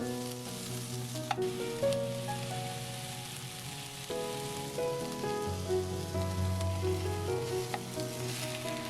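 Chicken breast and vegetables sizzling as they are stir-fried in a frying pan, with a few sharp clicks, over background music with changing held notes.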